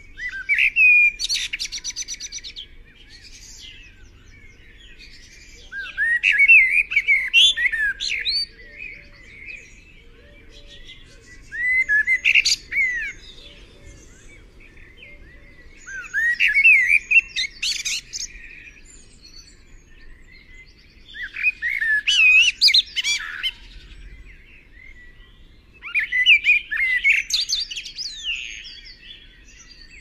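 Birds calling in repeated bouts of quick chirps and squeaky, gliding notes, about one bout every five seconds, each lasting two to three seconds.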